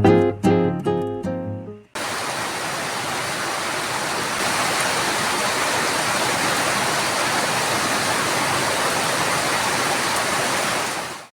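Acoustic guitar music for about two seconds, then it cuts to steady heavy rain: an even, unbroken hiss that stops abruptly near the end.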